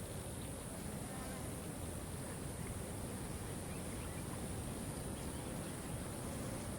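Steady rush of a waterfall, with a steady high hiss over it and a few faint, scattered bird chirps.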